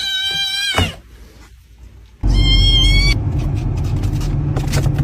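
A single drawn-out cat meow, falling slightly in pitch. About two seconds later a loud deep rumble begins, with a brief high tone over it for the first second, and it lasts almost three seconds.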